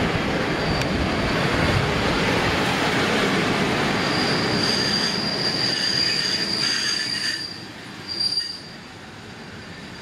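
Przewozy Regionalne passenger coaches rolling along the platform, their wheels rumbling on the rails with a thin, steady high squeal. The rumble drops away about three-quarters of the way through, leaving a brief last squeal.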